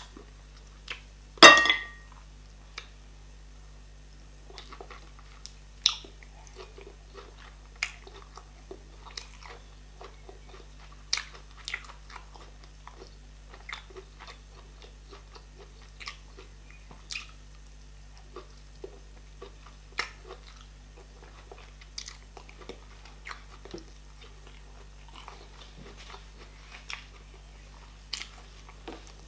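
Close-miked eating sounds: a person chewing meat and sucking soup off her fingers, with scattered wet smacks and mouth clicks. The loudest smack comes about one and a half seconds in.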